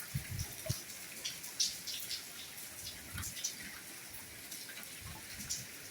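Soft rain falling, with many individual drops ticking and dripping close by and a few low, dull thuds scattered through.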